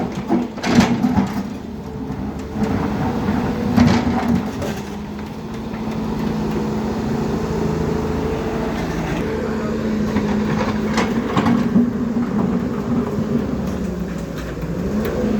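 Diesel engine of heavy earthmoving machinery running steadily under load, with a few sharp metallic knocks: two in the first four seconds and two close together later on.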